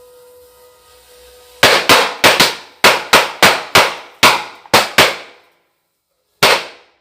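A string of firecrackers going off: a rapid run of about eleven sharp, loud bangs, then a pause and one last bang near the end.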